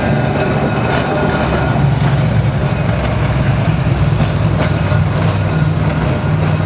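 Tram running, with a steady low hum and rolling noise throughout.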